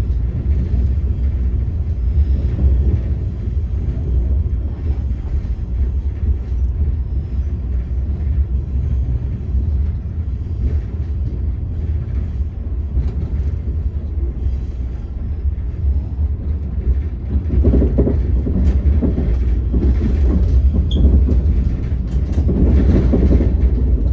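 Running noise of a passenger train coach heard from inside: a steady low rumble of wheels on track. It swells louder about eighteen seconds in and again near the end.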